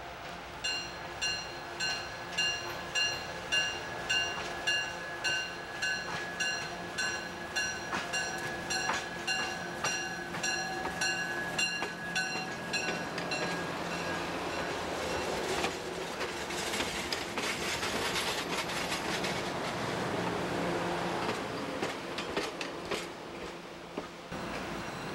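Budd Rail Diesel Cars approaching and passing close by, with diesel engine noise and wheels on the rail. Over the first half a bell rings about twice a second and fades out. The passing train is loudest in the second half.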